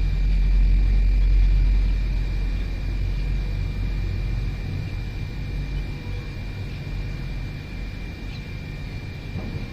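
A low rumble, loudest in the first two seconds and then fading, under a thin steady high tone; a faint short chirp near the end.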